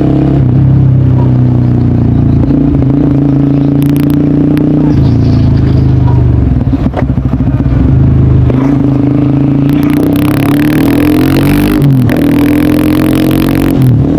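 Honda CBR150R's single-cylinder engine running through a DST aftermarket exhaust while riding. The note holds steady, breaks up briefly about halfway, then rises and falls with the throttle near the end. A rush of wind comes in over the second half.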